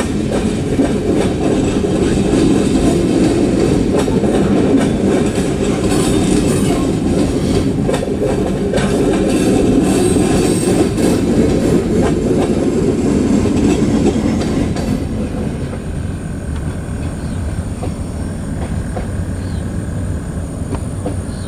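Freight cars rolling past (covered hoppers and tank cars): a steady rumble of wheels on rail with occasional clacks. The last car goes by about fifteen seconds in and the sound drops to a quieter rumble as the train moves away.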